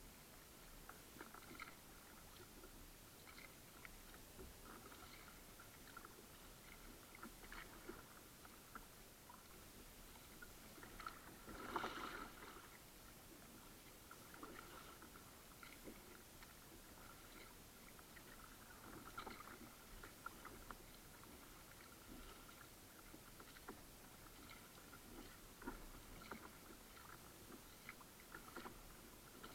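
Faint kayak paddling: scattered small splashes and drips of the paddle blades in the water, with one louder splash about twelve seconds in.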